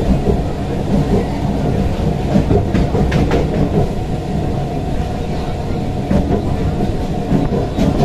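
A moving train's steady rumble heard from inside the carriage, with a few sharp clacks from the wheels on the rails.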